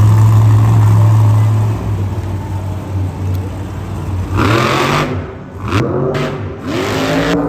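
Engine sounds: a steady low drone, then from about halfway through, three or four short revs in quick succession, each rising and falling in pitch.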